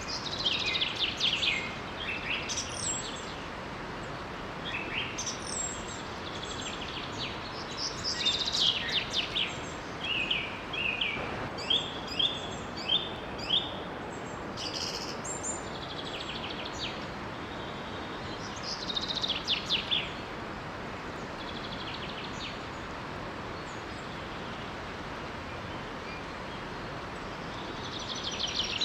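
Songbirds singing in short, repeated bouts of chirps and trills over a steady rushing of flowing water from a small waterfall.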